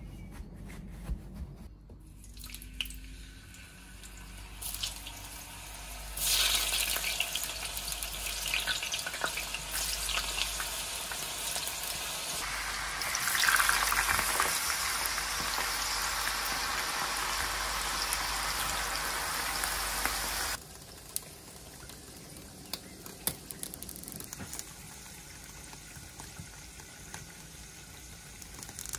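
Raw potato sticks sizzling hard in a pan of hot oil. The sizzle starts suddenly a few seconds in and surges louder about halfway through as more sticks drop in, then cuts off abruptly. Before and after it there is only light rustling and clicking.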